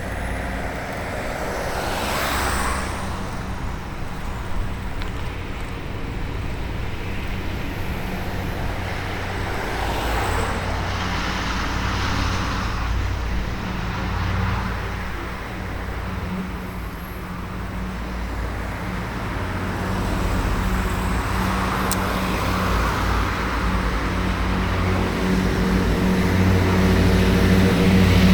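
Road traffic heard from a bicycle: several motor vehicles pass, each a swell of tyre and engine noise over a steady low hum, which grows louder near the end.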